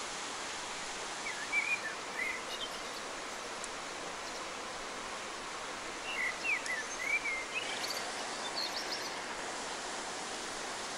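Steady rush of a mountain creek, with a small bird chirping short phrases twice, about a second in and again from about six seconds in.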